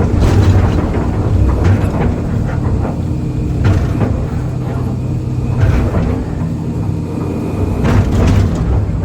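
Excavator's diesel engine running steadily under load, with a series of sharp crunches and knocks, about five, as concrete slabs are broken and shoved by the bucket.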